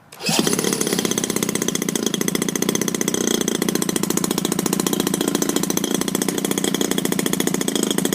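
EME35 single-cylinder two-stroke petrol model-aircraft engine, spun by its onboard electric autostart, catches almost at once and runs steadily with rapid even firing pulses.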